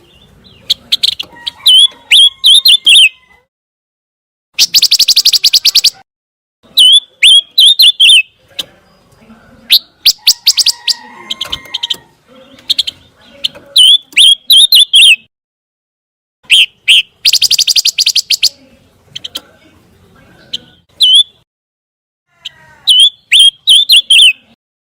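Pancawarna songbird calling: loud, high-pitched chirping phrases of quick, swooping notes, alternating every few seconds with bouts of rapid stuttering rattles.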